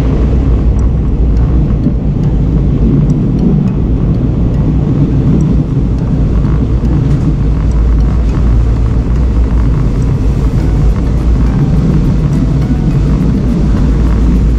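Thai third-class train coach running along the track, heard from inside: a loud, steady rumble of wheels on rails.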